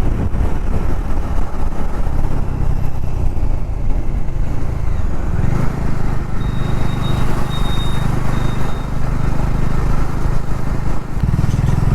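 Motorcycle engine running, heard from the rider's helmet camera over road and wind noise. The engine note strengthens a little after about five seconds. A faint high-pitched beeping sounds a few times in the middle.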